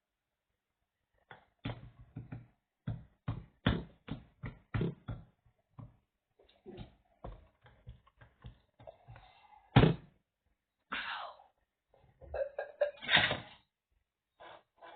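Irregular knocks, thumps and clicks of objects being handled, starting about a second in, with the loudest knock near the middle and a close cluster of knocks toward the end.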